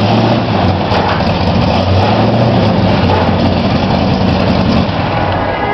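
Freshly built big-block V8 in a gasser-style Ford truck, running steadily at a fast idle.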